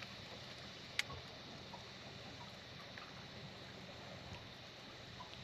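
A small boat's motor running quietly: a faint, steady low hum, with a single sharp click about a second in.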